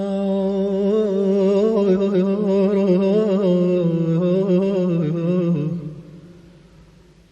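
A single voice humming a slow, wavering melody with vibrato, unaccompanied, as the opening of a Persian song. It fades away about six seconds in.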